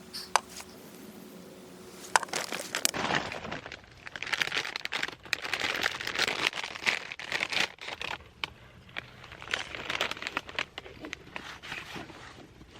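Irregular crinkling and rustling, as of material being handled, preceded by two sharp clicks in the first couple of seconds.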